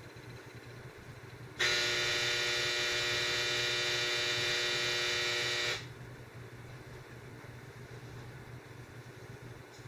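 A loud, steady buzzing tone at one unchanging pitch comes in abruptly about one and a half seconds in, holds for about four seconds and cuts off suddenly, over a faint low hum.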